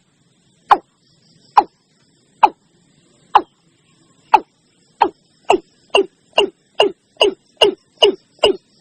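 Watercock calling: a series of short, loud notes, each sliding sharply down in pitch. They start at a little under one a second and speed up to about two a second.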